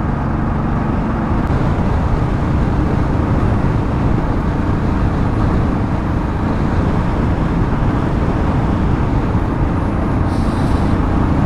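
Motorcycle riding at highway speed, picked up by a wired earphone mic inside a closed helmet: a steady rush of wind and road noise over the engine as the bike is sped up to about 100 km/h.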